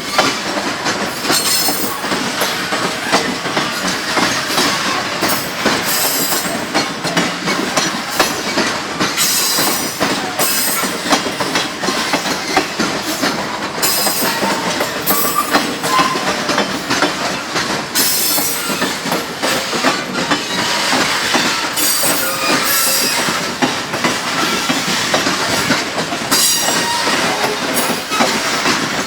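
Freight train wagons rolling past on the rails with a continuous clatter of wheels. High-pitched wheel squeal comes and goes every few seconds.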